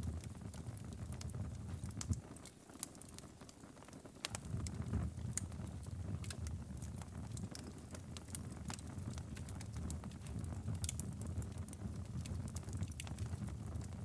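Wood fire crackling in a fireplace: irregular sharp pops and clicks over a low steady rumble. The rumble drops away briefly about two seconds in, then returns.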